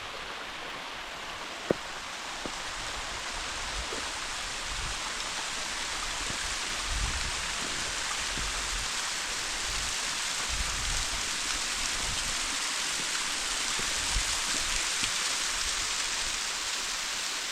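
Rushing water of a roughly 100-foot waterfall: a steady hiss that grows slowly louder. A sharp click comes about two seconds in, and there are a few low thuds.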